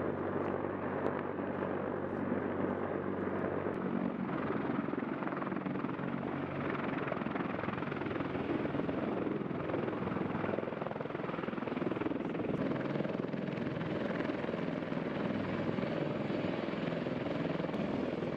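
Sikorsky CH-53K King Stallion heavy-lift helicopter running, a steady mix of rotor and turbine noise with low tones underneath for the first few seconds.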